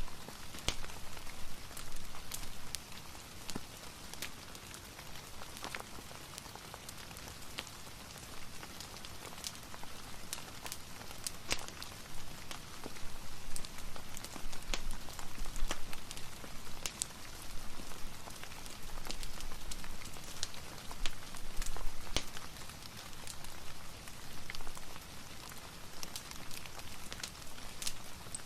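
Steady rain hiss mixed with a crackling fireplace, sharp pops and ticks scattered irregularly over the even wash of rain.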